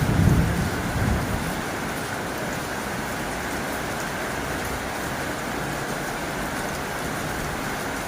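Heavy rain drumming steadily on a tin roof. A low rumble of thunder fades out in the first second and a half.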